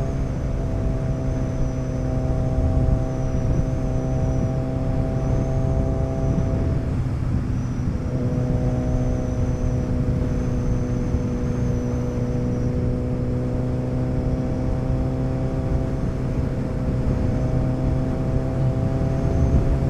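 Motorcycle engine running steadily under way with wind rush. About seven seconds in the engine note breaks off briefly and comes back lower, then slowly climbs.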